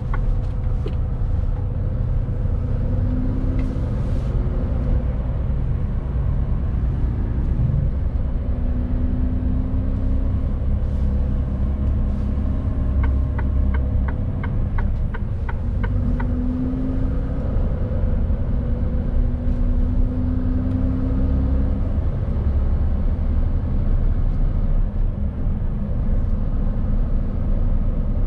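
Mercedes-Benz Actros truck's diesel engine and road noise droning steadily in the cab while driving under a 19-ton load. For a few seconds about halfway through there is a quick run of regular ticks.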